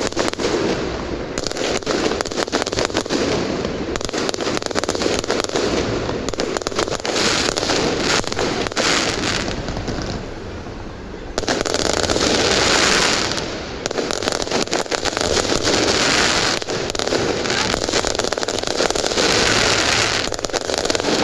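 Fireworks display: a dense, continuous run of crackles and bangs, with a louder surge of bursts lasting a couple of seconds a little past halfway.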